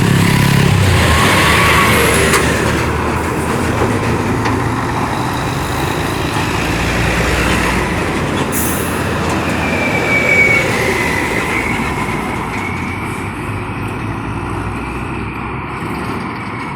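Heavy diesel trucks labouring up a steep grade at crawling speed, engines running under load, with a high steady whine coming in about ten seconds in.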